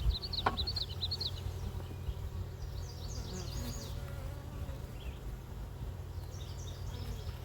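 Honeybees buzzing around an open hive: a steady low hum, with short high chirps a few times and a single sharp click about half a second in.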